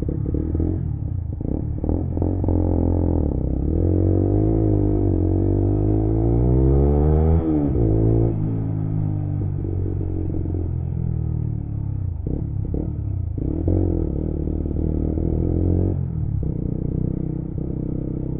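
Lexmoto Assault 125's single-cylinder engine through a noisy aftermarket exhaust on the move, revving up for several seconds and then dropping sharply at a gear change about seven seconds in. It then runs on steadier at lower revs, with a couple of brief dips later.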